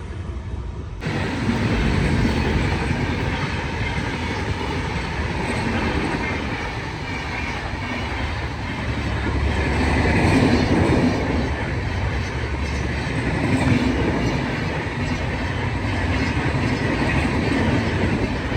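Indian Railways train passing close by at speed, its wheels running over the rails in a loud continuous rumble. The sound begins abruptly about a second in.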